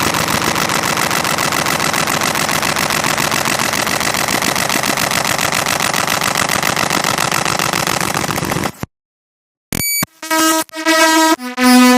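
The bytes of the Windows DLL file WMM2RES.dll played as raw audio: a dense, harsh buzzing noise with a fast fine grain that cuts off suddenly about nine seconds in. After a short silence and a brief beep, a run of clean steady tones follows, each held briefly and changing pitch in steps.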